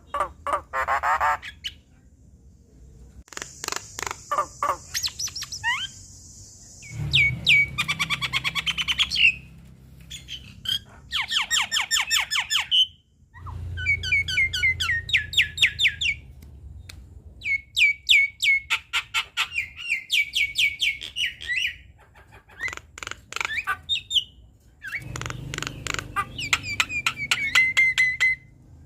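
Javan myna (jalak kebo) singing vigorously: bursts of harsh squawks, rapid clicking runs and quick repeated whistled notes that rise and fall, separated by short pauses.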